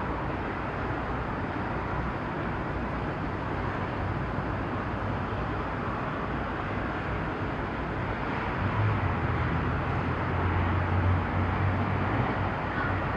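Outdoor harbour ambience: a steady wash of noise with a low engine drone that grows louder about two-thirds of the way through, then eases.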